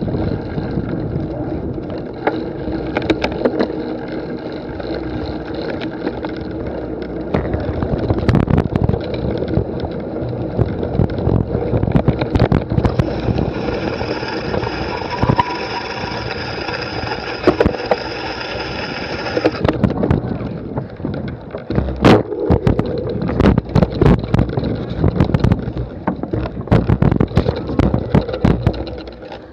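Wind buffeting the microphone, with frequent knocks and bumps of handling noise. A steady pitched tone sounds over it for several seconds in the middle.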